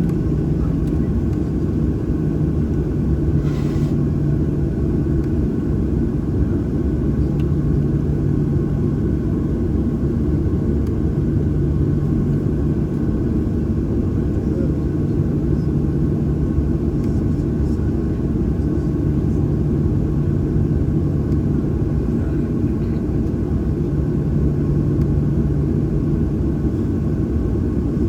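Steady cabin rumble of a Boeing 737-800 with its CFM56-7B engines running, heard from inside the passenger cabin, with a low hum that fades in and out every few seconds.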